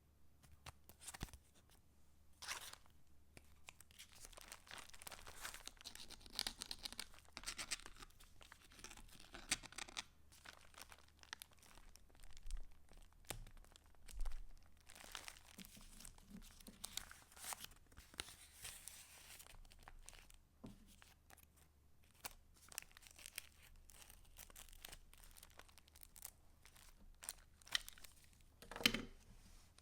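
Paper rustling and crinkling as the pages and paper pieces of a handmade junk journal are handled and turned: a string of irregular soft swishes and small taps. The loudest, fullest stroke comes near the end.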